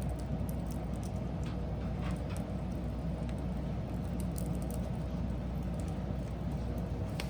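Wood fire burning with a steady low rush and scattered sharp crackles and pops, one louder pop near the end.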